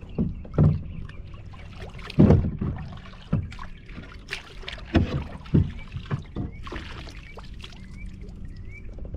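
Irregular knocks and thumps of gear being handled against a fishing kayak's hull, a few loud ones spaced unevenly over several seconds.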